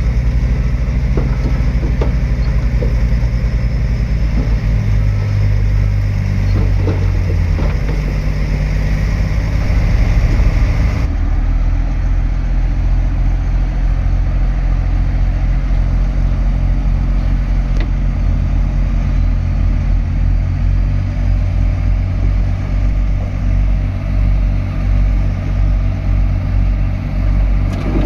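Heavy diesel engines of a bulldozer and dump trucks running at a steady, deep drone. The sound changes abruptly about eleven seconds in.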